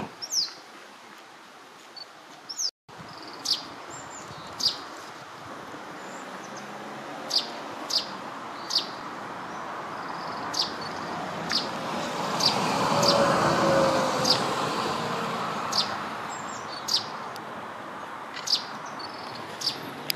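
Russet sparrows calling: more than a dozen short, sharp chirps at irregular intervals, each a quick downward stroke. Beneath them a low rushing rumble swells up around the middle and fades away.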